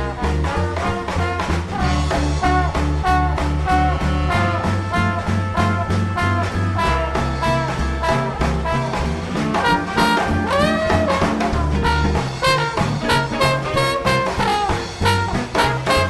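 Swing band playing an instrumental passage: drums keeping a steady beat under a walking upright bass, with a horn section of saxophones, trumpet and trombone playing the melody lines.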